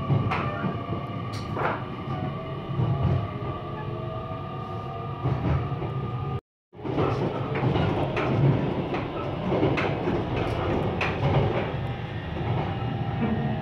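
Running noise of the Kamome limited express heard from inside the carriage: a steady rumble with scattered clacks from the rails, and a steady high whine in the first half. The sound drops out completely for a moment about six and a half seconds in, then the ride noise carries on.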